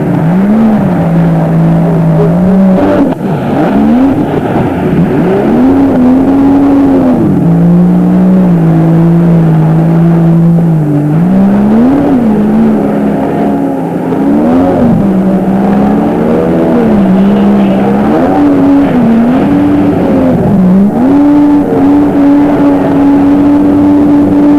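Jet ski engine running, its pitch rising and falling again and again as the throttle is opened and eased off, with a few longer steady stretches between.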